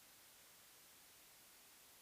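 Near silence: a very faint, steady white-noise hiss.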